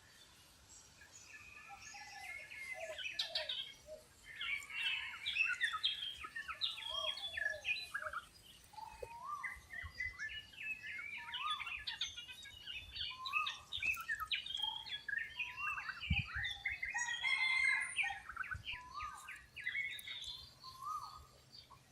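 A chorus of wild birds calling: many short chirps and whistles overlapping from several birds at once, some of them quick rising whistles.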